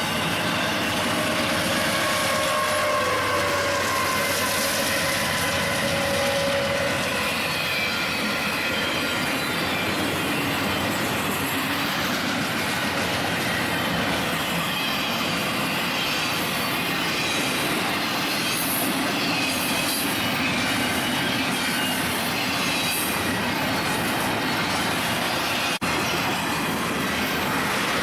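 Train cars rolling past, their steel wheels squealing on the rails in a steady, shifting whine over continuous rumbling.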